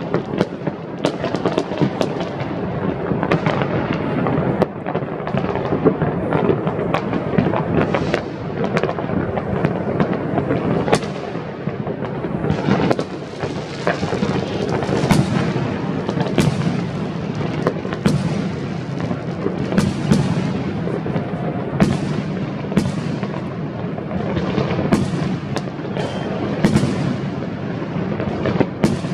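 New Year's fireworks going off without a break: many sharp bangs and crackling bursts, near and far, over a constant rumble of distant explosions.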